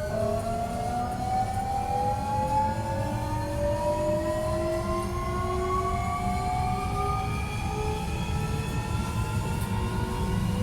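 Hankyu 1300 series electric train accelerating: the traction inverter and motors whine in several stacked tones that glide slowly and steadily upward over the low rumble of the running train.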